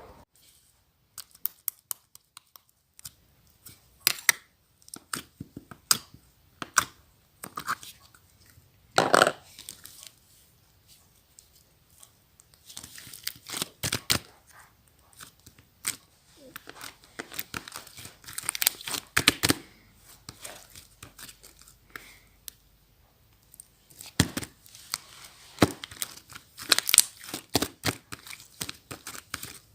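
Slime being handled and stretched by hand, making irregular crackles, clicks and sticky popping sounds with short pauses between them.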